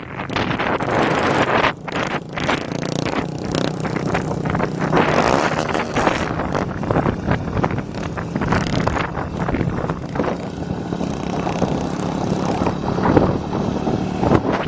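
Motorcycle exhaust running while riding, rising and falling irregularly, with wind buffeting the microphone.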